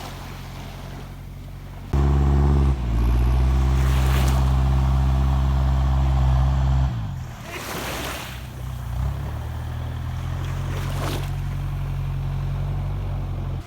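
An engine running steadily at a low pitch. It jumps louder about two seconds in and changes again around seven seconds, with a few short rushing whooshes over it.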